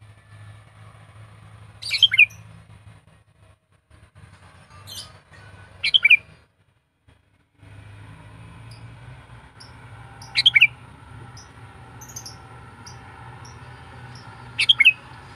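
Sooty-headed bulbul (kutilang) giving four short, loud chirping calls, about one every four seconds, each a quick run of notes falling in pitch. A steady low hum and faint high chirps run underneath.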